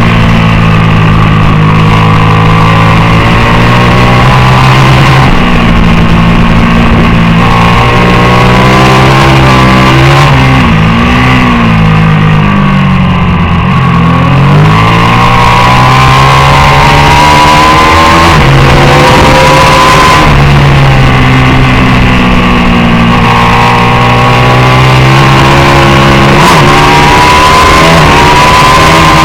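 750cc superbike racing motorcycle engine at race pace, revs climbing and dropping as it shifts through the gears, with a run of quick downshifts and throttle blips about halfway through.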